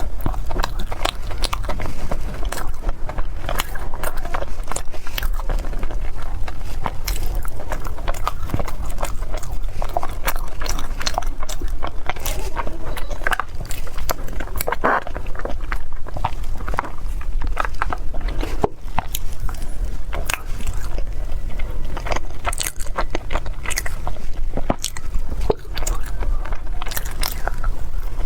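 Close-miked eating: a person biting and chewing food, a dense, continuous run of small crunches and clicks.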